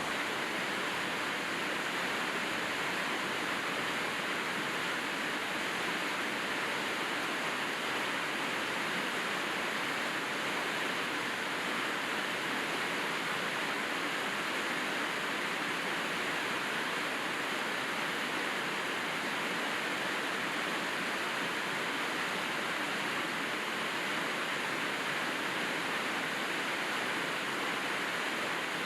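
Steady rainfall: an even, unbroken hiss of rain with no single drops or other events standing out.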